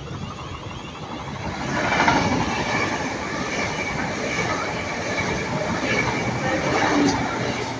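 Electric passenger train moving along the platform road, wheels running on the rails with some squeal. It builds about two seconds in and stays loud, with a second peak near the end.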